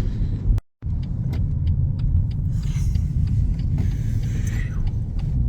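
Car driving, heard from inside the cabin: a steady low rumble of engine and tyre noise, with a few light clicks. The sound drops out completely for a moment about half a second in.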